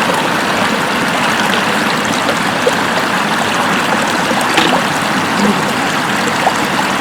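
Floodwater flowing steadily over a road, a continuous stream-like rush with a few small clicks.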